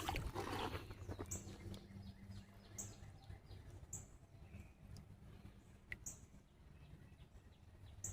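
A bird giving short, high chirps every second or two, over a faint steady low hum.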